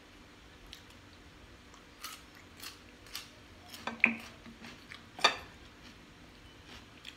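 Chewing and tasting with a few short mouth smacks. Then two louder sharp knocks about four and five seconds in as a sauce bottle is picked up from the table.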